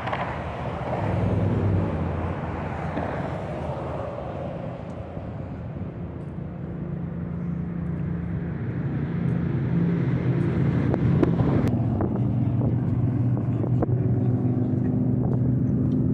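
Motor vehicle sound: a vehicle's noise swells and fades in the first few seconds, then an engine runs with a steady low hum that grows louder, with a few sharp clicks near the end.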